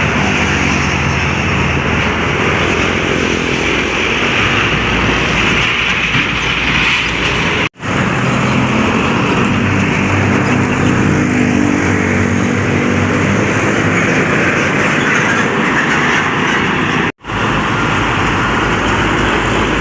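Heavy road traffic with trucks passing, a steady loud rush of tyre and engine noise with diesel engine drone underneath. The sound drops out abruptly twice, about 8 and 17 seconds in.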